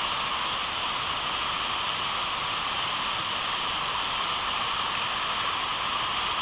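Steady rush of white water on the Durance river: a rapid's constant hiss with no breaks.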